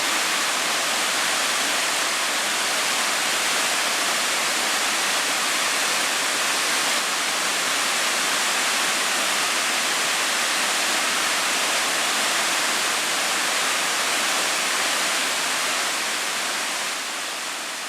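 Steady, even rushing of water, fading out near the end.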